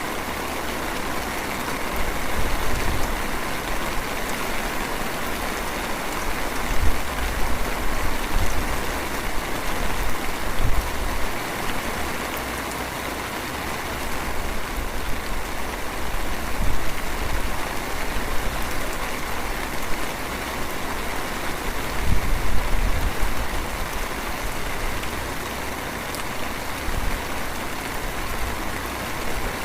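Light drizzle falling, a steady even hiss of rain with a few brief low rumbles.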